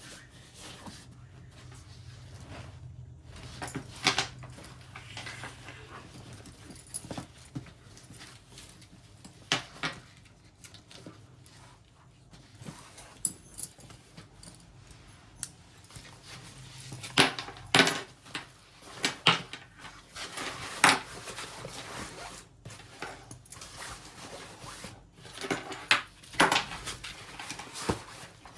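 Laptop backpack being handled: irregular rustling with sharp clicks and knocks, several louder clusters of clicks partway through and near the end.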